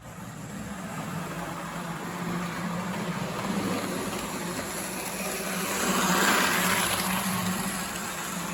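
Gilbert HO-scale model train running on the track: a steady electric motor hum with wheel rumble. It grows louder as the train comes closest, about six seconds in, then fades as it moves away.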